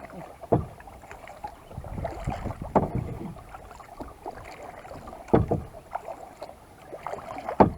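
Kayak paddle strokes in the water, with splashing and water washing along the hull. Four sharper strokes stand out, about every two and a half seconds.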